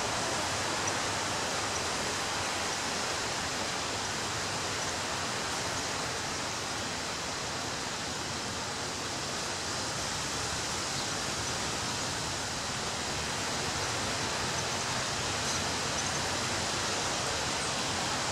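Ocean waves breaking on a beach: a steady wash of surf noise that eases slightly around the middle and swells again in the last few seconds.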